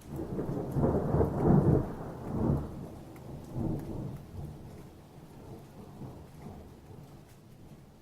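A roll of thunder: a long, deep rumble in several swells, loudest about one to two and a half seconds in, then dying away over the next few seconds. Rain hisses faintly beneath it.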